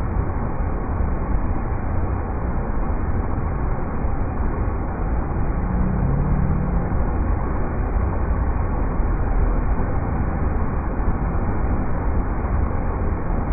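River rapids rushing in a steady, even wash of water noise, deepest and strongest in the low end.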